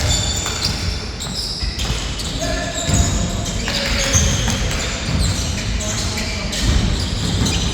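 Basketball bouncing on a court during a game, with brief high squeaks like sneakers on the floor and players' voices calling out.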